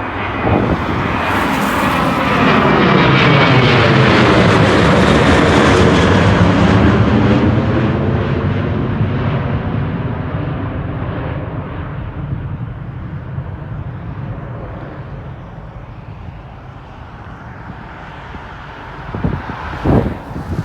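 Jet airliner passing close by, its engine noise swelling to a loud peak and then slowly fading away, with a whooshing sweep in pitch as it goes past. Wind buffets the microphone near the end.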